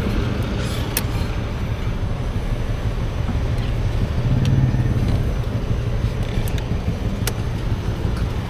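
Wind rumble on an action camera's microphone while riding a Honda Forza 350 scooter, with engine and road noise underneath. It swells louder about four and a half seconds in, and there are a couple of brief sharp clicks.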